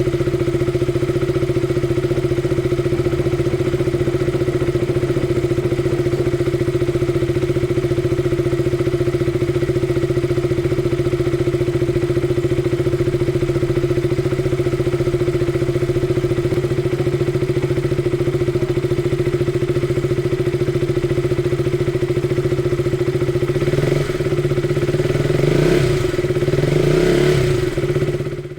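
KTM RC 200's single-cylinder four-stroke engine idling steadily while warming up after a cold start. Near the end the engine speed rises and falls a few times, then the sound cuts off abruptly.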